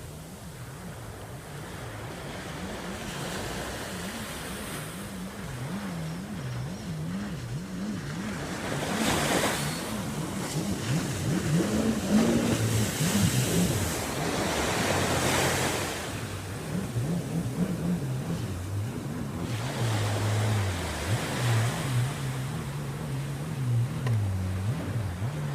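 Sea waves washing onto a beach, the surf hiss swelling with each wash, loudest in two surges in the middle. Underneath runs a low engine hum whose pitch wavers up and down.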